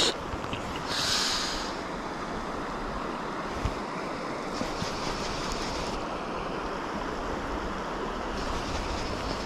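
Mountain stream water rushing steadily, with a brief hiss about a second in.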